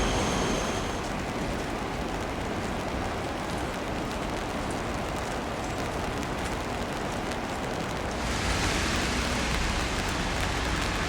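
Steady rushing hiss of water, heavy rain or fast floodwater, which grows louder and brighter about eight seconds in.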